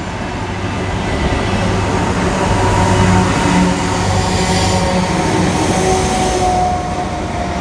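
A train passing through the station, loud and close, its rumble building over the first few seconds and then holding steady with a steady motor hum.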